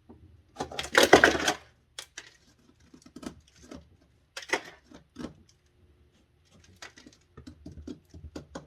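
Hands working the plastic panels and wiring inside a refrigerator's freezer section: irregular clicks, knocks and scrapes, with a louder rustling scrape about a second in.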